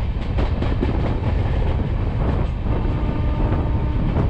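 Gatimaan Express passenger train running along the track: a steady rumble of wheels on rail with irregular clicks and knocks.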